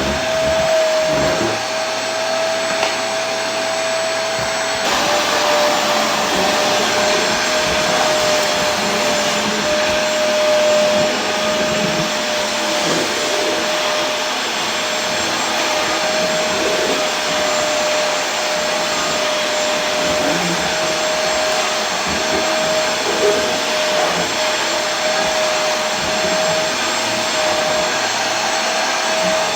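Vacuum cleaner running steadily: a constant motor whine over an even rush of air, with a slight drop in pitch about five seconds in.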